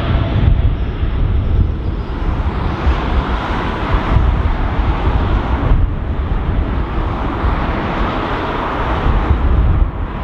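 Jet engine noise from an Emirates Boeing 777-300ER departing, its GE90 turbofans giving a steady broad rumble.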